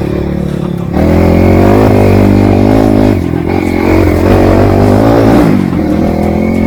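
Off-road trail motorcycle engine revving hard, jumping up sharply about a second in and holding high, uneven revs that dip and climb again.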